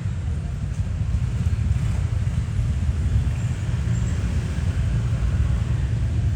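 Steady low rumble, with only a faint hiss above it.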